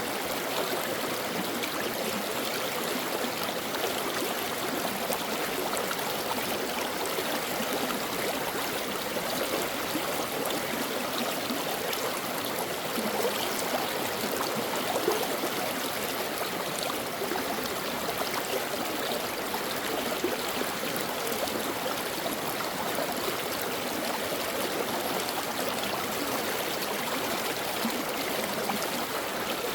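A shallow stream flowing and babbling steadily over rocks, with a continuous gurgling rush of water.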